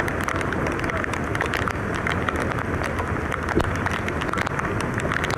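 Heavy rain falling steadily, with many sharp drop ticks close to the microphone and a low wind rumble.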